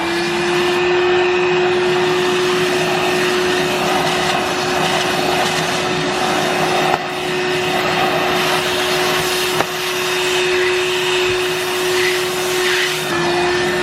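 Bobbot cordless handheld vacuum cleaner running at full speed: a steady motor whine over the hiss of rushing air, with a couple of small clicks partway through.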